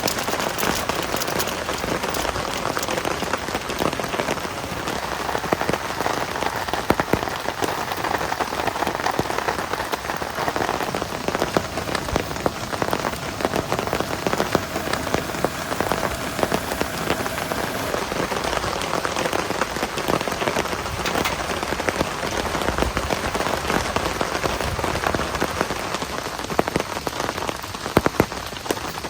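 Heavy rain falling steadily, a dense even hiss made of countless close drop hits.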